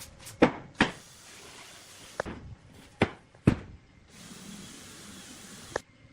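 About six sharp knocks on wood, irregularly spaced, with two stretches of steady hiss between them.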